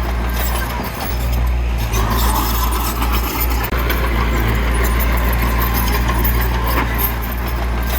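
Heavy diesel machinery, a bulldozer or dump truck at earthmoving work, running steadily with a low engine drone.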